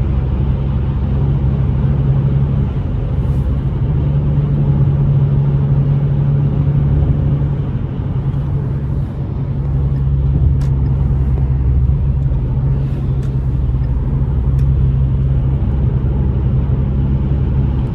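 Turbocharged 2.3-litre four-cylinder engine of a Ford Mustang EcoBoost, driving along at a steady engine speed: a low, even drone, dipping slightly in level about eight or nine seconds in.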